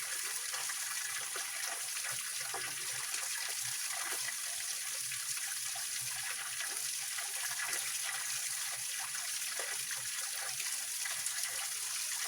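Small mountain stream spilling over rocks in a little waterfall: a steady rush of falling water with fine splashing and trickling.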